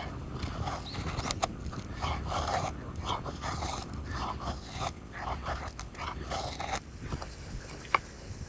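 Knife blade making a series of irregular scraping cutting strokes, with a few sharp clicks, the last one near the end.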